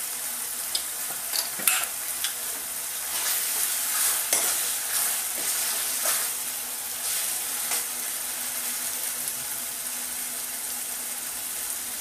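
Tomato masala sizzling as it fries in a metal kadai, with a steel ladle stirring it and clinking and scraping against the pan every second or two.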